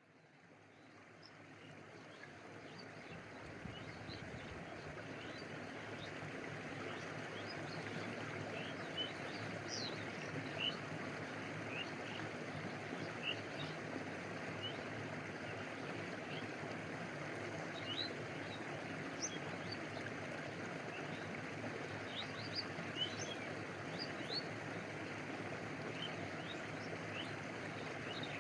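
Stream water running steadily, fading in over the first few seconds, with scattered small high plinks of water lapping close by.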